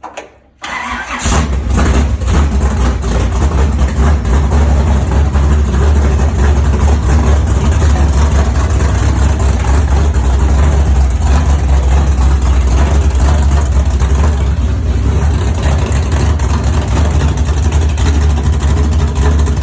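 A 496 cubic-inch big-block V8 on its first start-up, catching about a second in and then running loud and steady.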